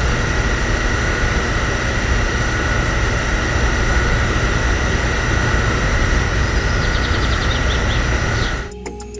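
Loud steady machine noise with a high whine, starting suddenly and cutting off abruptly near the end.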